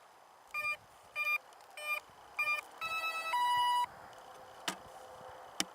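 Electronic speed controller of an electric RC warbird beeping through its motor as the battery is connected: four short beeps, typical of an ESC counting a 4-cell pack, then two longer falling tones signalling it is armed. Two sharp clicks follow near the end.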